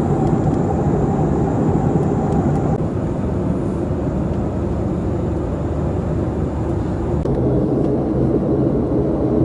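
Steady engine and airflow rumble inside a passenger airliner's cabin, with a faint thin whine that stops about three seconds in.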